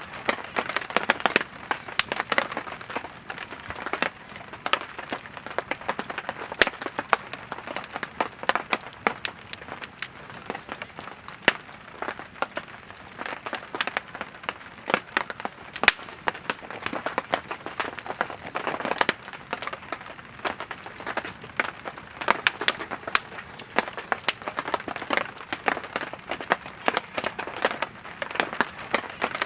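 Firewood burning in a campfire, crackling steadily with frequent sharp pops over a soft hiss.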